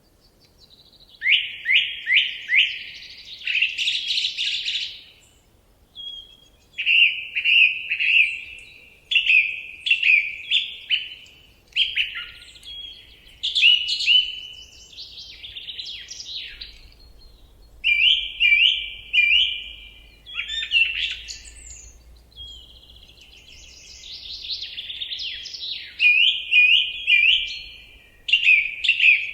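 A songbird singing close by: loud phrases every second or two, each a fast run of repeated short notes, with brief pauses between phrases.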